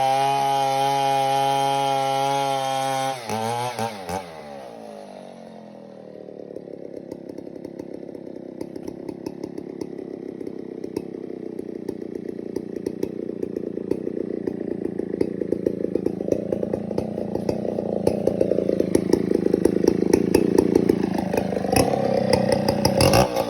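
Chainsaw running at high revs, its note falling about three seconds in. It then runs at a lower pitch with a rattling sound that grows steadily louder, and revs back up near the end.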